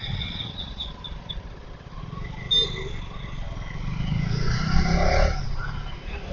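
Steady low rumble of vehicle engines and road noise while riding in traffic, with faint high horn-like tones in the first second and a louder passing surge about four to five seconds in.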